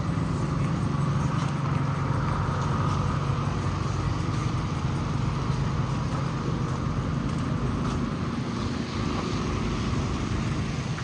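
City street traffic with a vehicle engine running close by: a steady low hum over a constant wash of road noise.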